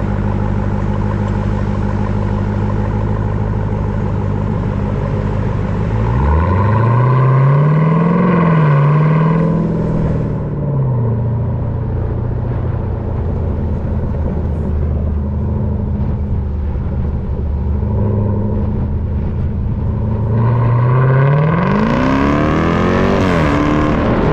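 Dodge Durango SRT Hellcat's supercharged 6.2-litre V8, with its mid-muffler deleted, running steadily and then accelerating hard twice, about six seconds in and again near twenty seconds in. Each time the engine pitch climbs for a few seconds before dropping off, with a higher supercharger whine rising alongside it.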